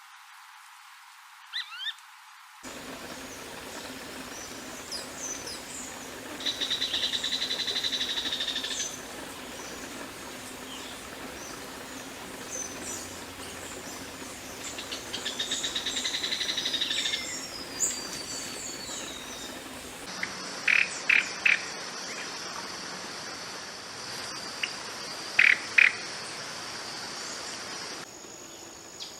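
Several wild birds calling and singing. There are scattered high chirps, a fast trill twice in the first half, and loud short notes in groups of two or three near the end. The background changes abruptly a few times.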